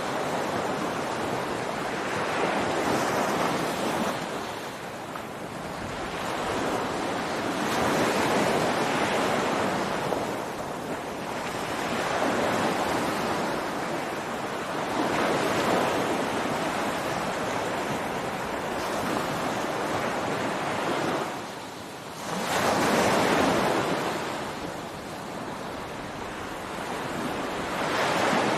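Ocean waves breaking on a beach: a continuous rush of surf swelling and easing as each wave comes in, about every four to five seconds, with wind noise.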